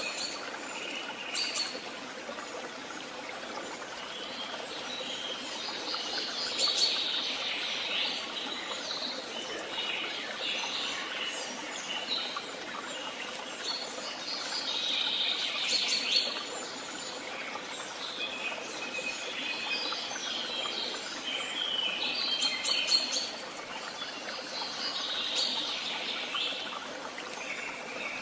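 Woodland songbirds singing, with a loud song phrase returning about every eight seconds, over the steady trickle of a stream.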